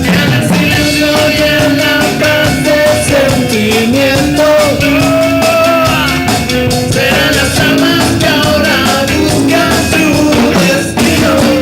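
Rock band playing live: drums keep a steady beat under a melodic lead line.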